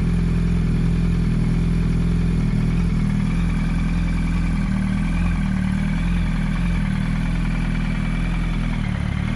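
2007–2008 Yamaha R1's inline-four engine idling steadily through its aftermarket Akrapovic Y-pipe and Scorpion exhaust canister.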